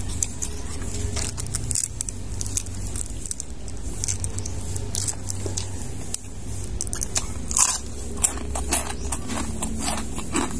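Crunching and chewing of crispy deep-fried pork intestine (chicharon bulaklak), a run of sharp crunches that is loudest around eight seconds in.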